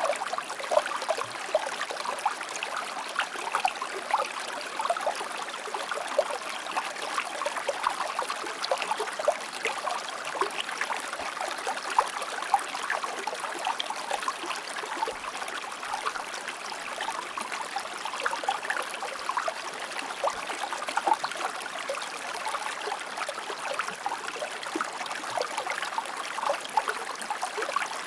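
River water flowing steadily: a continuous rushing babble, thick with many small splashes.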